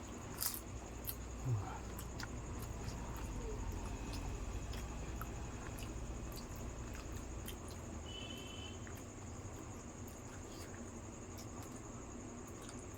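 People eating yogurt-filled puffed fuchka shells: small, scattered mouth clicks and soft wet chewing over a steady, high, thin whine.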